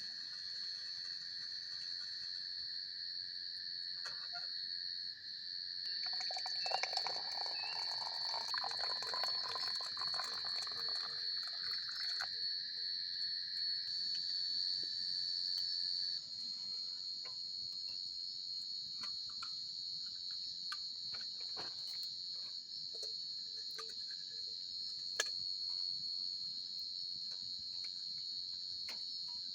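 Crickets trilling steadily over a crackling campfire. The fire crackles densely from about six to twelve seconds in, then gives scattered pops. A lower insect trill stops about halfway through.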